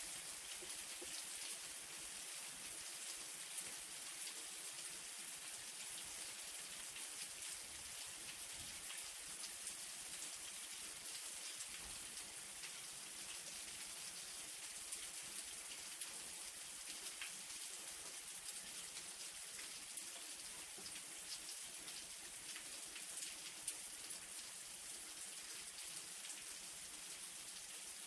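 Light rain falling steadily: a soft, even hiss with many small drop ticks.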